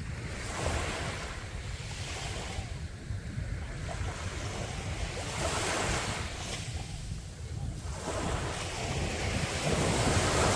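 Sea waves breaking and washing up a beach, swelling about three times, with wind buffeting the microphone.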